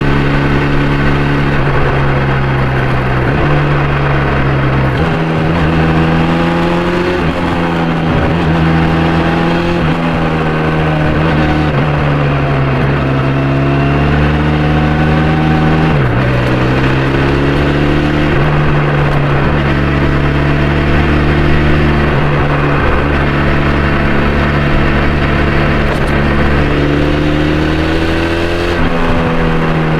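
Benelli TRK 502's parallel-twin engine ridden hard at full throttle, its revs climbing and then dropping sharply several times.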